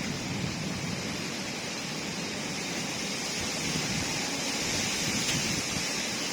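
Steady hiss of a storm's wind and rain, even and unbroken.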